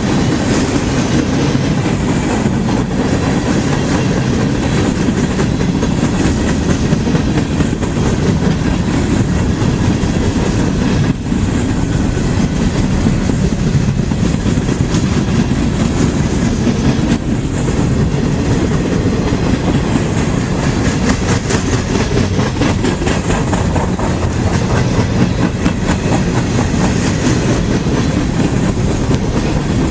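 Freight train cars rolling past, a steady loud rumble with the wheels clicking over the rail joints.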